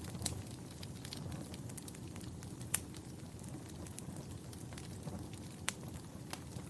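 Fireplace fire crackling: a steady low rumble with scattered sharp pops and snaps, two louder pops about a third of the way in and again near the end.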